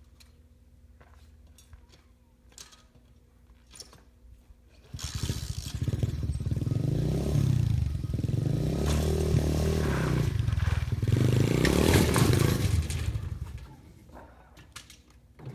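Small pit bike engine revving up and down for about eight seconds, starting suddenly about five seconds in and fading away near the end, with a few faint clicks in the quiet before it.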